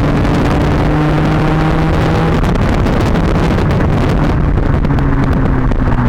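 Honda Civic Type R FN2's 2.0-litre four-cylinder engine through a Magnaflow exhaust, droning at fairly steady revs, easing off about four seconds in.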